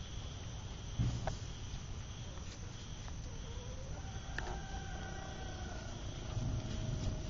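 Outdoor ambience: steady insect chirring, with low wind rumble on the microphone and a single click about a second in. A faint, drawn-out call rises and then holds a steady pitch through the middle.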